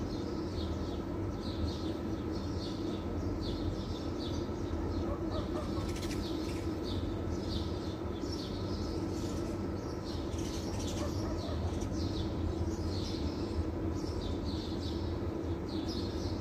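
Small birds chirping: short, high chirps repeating one after another, over a steady low hum.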